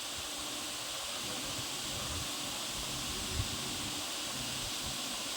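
Steady, even background hiss with no distinct events, and one faint knock about three and a half seconds in.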